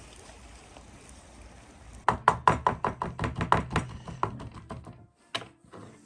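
A rapid run of sharp knocks or taps, about six or seven a second, starting about two seconds in and lasting a couple of seconds, then one more single click near the end.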